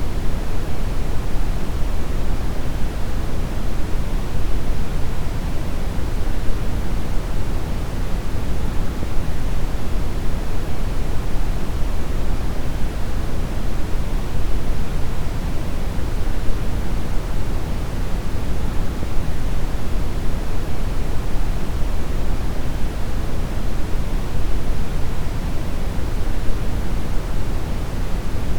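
Steady brown noise: an even, deep rushing hiss with most of its energy in the low end, unchanging throughout.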